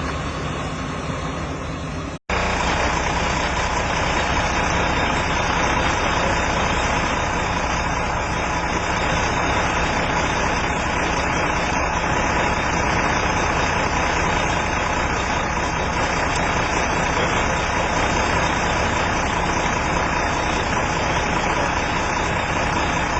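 Steady running of idling vehicle engines. The sound cuts out completely for a moment about two seconds in, then carries on slightly louder.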